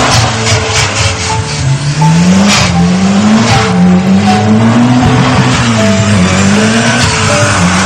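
Cartoon vehicle engine sound effect, its pitch rising and falling as it revs, over background music.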